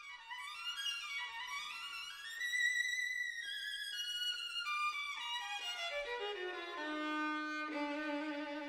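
Background music: a solo violin playing a melody that climbs, then steps down and settles on a long held low note near the end.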